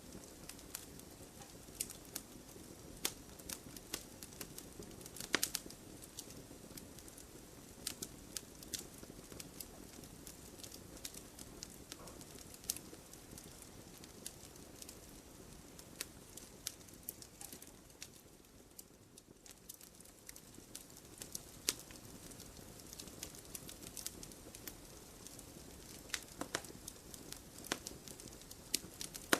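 Wood fire burning in a fireplace: irregular sharp crackles and pops over a low, steady rush of flame, a little quieter for a moment about two-thirds of the way through.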